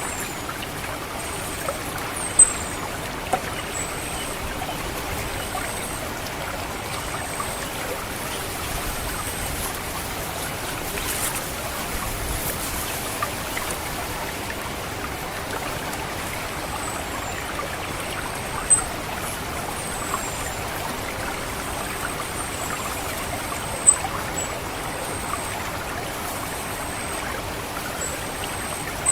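Steady trickle of water in a flooded rice paddy, with the thin, very high 'ngecit' calls of an orange-headed thrush repeating as short drawn-out notes and a few sharper down-slurred ones. The calls pause for several seconds in the middle.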